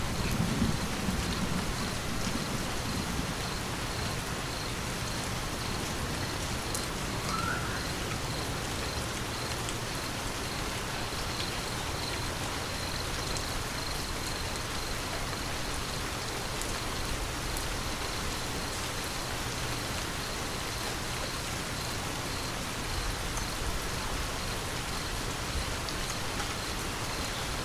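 Steady, even rain falling, with the tail of a thunder rumble dying away in the first second or so.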